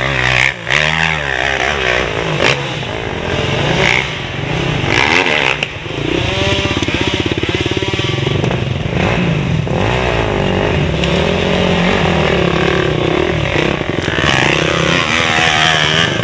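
Dirt bike engine being ridden hard, its revs repeatedly rising and falling in pitch, with a few sharp knocks.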